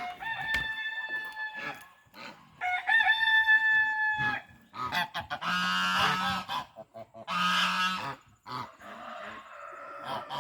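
Domestic geese honking: two long, drawn-out calls held on one pitch, then harsher, rougher honks over one another, and softer calling near the end.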